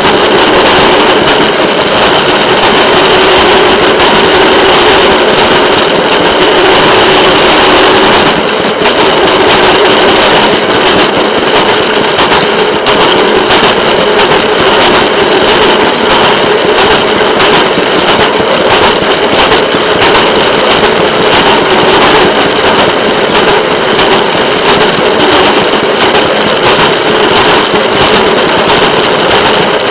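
Steady, loud running noise of a moving excursion train, picked up by a camera mounted on the railcar, with a brief dip in level about eight seconds in.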